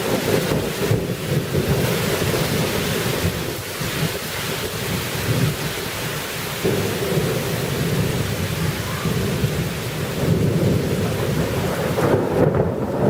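Thunderstorm: heavy rain with rolling, rumbling thunder throughout, with no single sharp crack.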